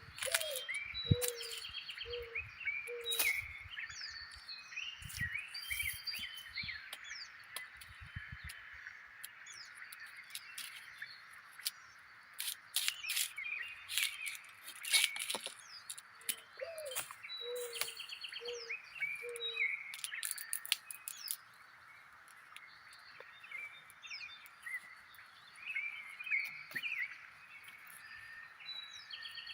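Wild birds chirping and calling, with a low call of four notes heard twice. Scattered sharp clicks and dull thuds come mostly in the first half.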